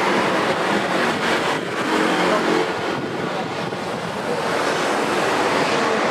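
Airbus A320-214's CFM56 engines in reverse thrust as the airliner brakes on the runway after landing: a steady, loud rushing noise.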